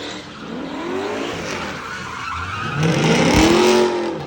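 V8-swapped Lexus IS doing a burnout: the V8 revs up and down while the rear tyres spin and squeal against the pavement. It is loudest about three seconds in, then eases off near the end.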